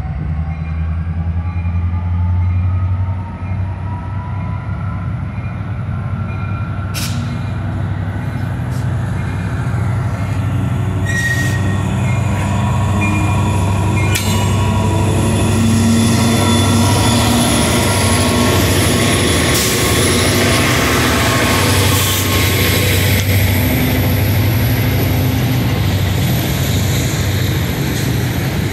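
CN diesel freight locomotives pulling through a grade crossing while speeding up: a steady deep engine drone, with a whine that rises in pitch over the first ten seconds. A few sharp clanks come through, and the wheel and rail noise grows louder from about halfway as the units pass close by.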